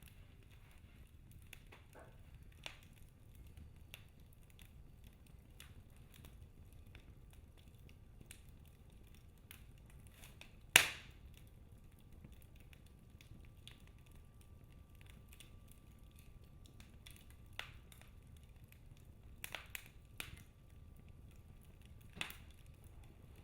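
Wood fire in a fireplace crackling: scattered small pops and clicks, with one sharp, much louder crack about eleven seconds in, over a low steady rumble of the flames.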